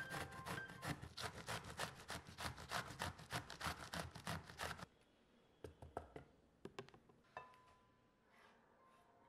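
Bottle gourd being grated on a flat stainless-steel hand grater, rapid rasping strokes about four a second that stop about five seconds in. A few light knocks follow.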